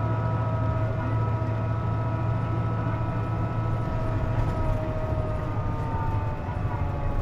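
Cabin sound of a KC-JP250NTN route bus under way: a steady low engine drone with several whining tones above it that drift slightly down in pitch. The whine is the bus's known abnormal noise, heard with the air conditioning running.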